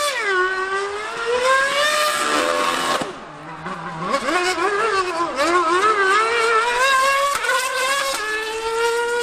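High-revving race engines, a V8 Formula One car and a superbike racing round a circuit: a high engine note climbing and dropping with gear changes and lift-offs, fading briefly about three seconds in before coming back.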